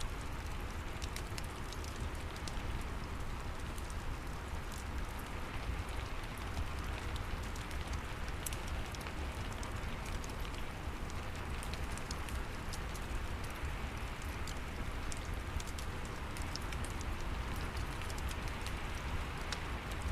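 Steady rain mixed with a crackling fireplace: an even hiss of rain over a deep low rumble, with frequent small sharp crackles and pops scattered throughout.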